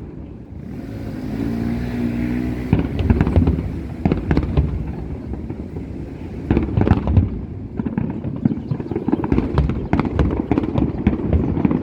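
Fireworks display going off: a dense run of bangs and crackling bursts, with a hissing stretch in the first few seconds.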